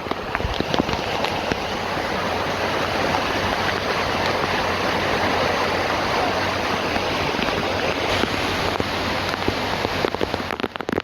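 Steady, dense rush of pouring rainwater in a heavy downpour, falling away near the end.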